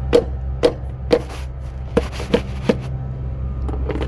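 A series of sharp, irregular clicks and taps from handling hardware, about eight in all, over the steady low hum of a running engine.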